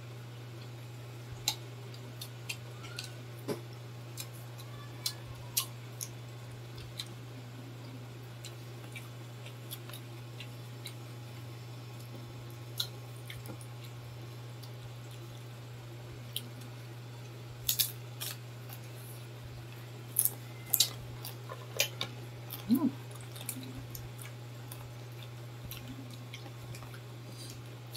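Eating sounds from chewing crispy deep-fried pork intestine and lung by hand: scattered short crunches and mouth clicks, sparse at first and bunched into a busier run about two-thirds of the way through, over a steady low hum.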